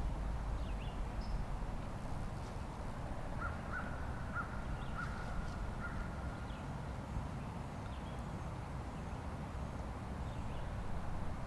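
Woodland ambience: distant birds calling over a low steady rumble, with a short run of repeated calls a few seconds in.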